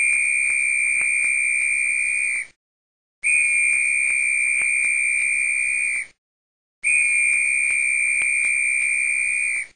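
High-pitched electronic alarm sounding three long, steady beeps of nearly three seconds each, with short gaps between them.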